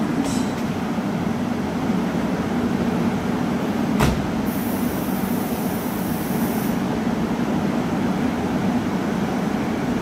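Korail electric commuter train standing at the platform with its equipment humming steadily. About four seconds in there is a sharp clunk as its doors close, followed by a high hiss lasting about two seconds.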